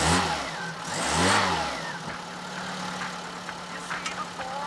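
Car engine revving up and back down twice, about a second apart, then running at a steady idle.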